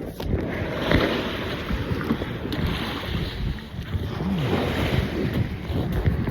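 Strong wind buffeting a phone's microphone in uneven low gusts, over the wash of sea water.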